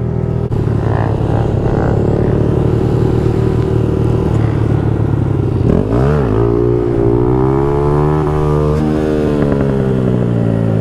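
Honda Grom's single-cylinder engine running under way. About halfway through the revs drop sharply and climb straight back, then rise slowly and ease off again.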